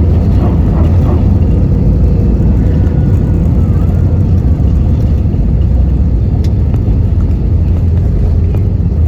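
Loud, steady cabin rumble of an Airbus A320-200 during its landing at the runway.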